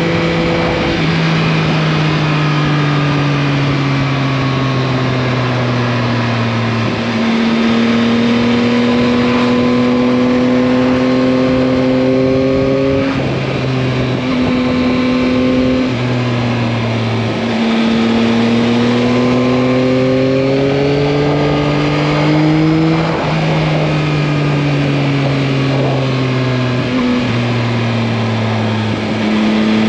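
2021 Yamaha MT-09's 890 cc inline three-cylinder engine under way, its pitch falling and then climbing again as it pulls. There are several short breaks and drops in pitch, about seven seconds in, around thirteen, sixteen to eighteen, twenty-three and twenty-seven seconds, where it shifts gear or rolls off the throttle.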